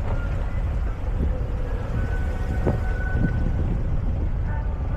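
Motorbike engine running while the bike is stopped, a steady low rumble.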